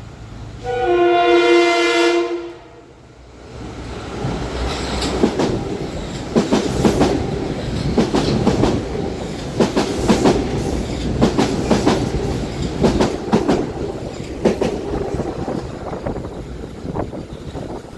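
Metro-North commuter train sounding its horn once, a steady chord held for about two seconds, then the train passing close by: a loud rumble with wheels clicking over rail joints.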